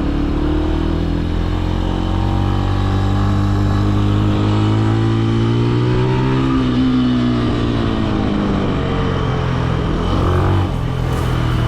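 Benelli BN125's single-cylinder 125 cc engine under way, its revs climbing steadily for about six seconds and then easing off, with an abrupt drop in engine note near the end.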